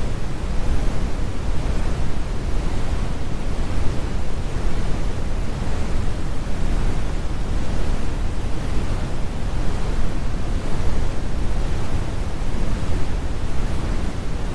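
Computer-generated brown noise: a steady, deep rumble with the highs rolled off.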